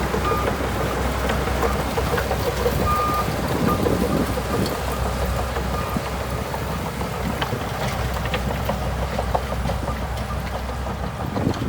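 Bulldozer's diesel engine running steadily as a low drone, with scattered knocks and rattles and two short high beeps in the first few seconds.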